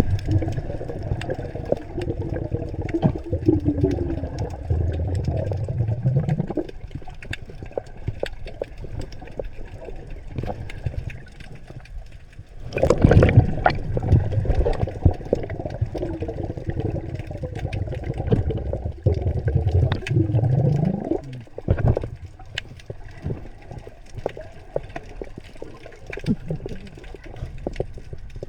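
Underwater bubbling and gurgling, as of a diver's exhaled air bubbles, in two long bursts: the first stops about six and a half seconds in, the second starts about thirteen seconds in and lasts about eight seconds.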